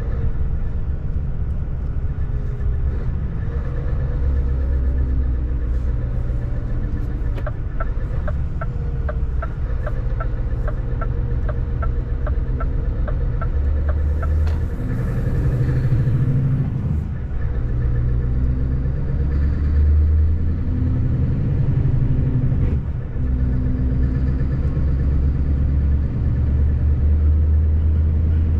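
Scania 770S truck's 16-litre V8 diesel running under way, heard from inside the cab, its pitch rising and falling as the load and gears change. For about six seconds in the middle, a regular ticking of about three clicks a second, the turn-signal indicator.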